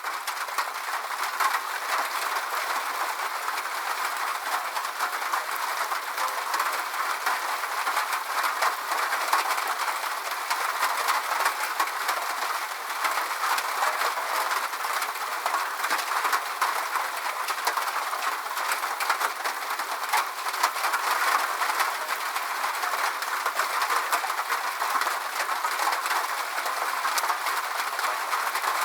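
Steady rain falling, a dense, even patter of drops with no thunder.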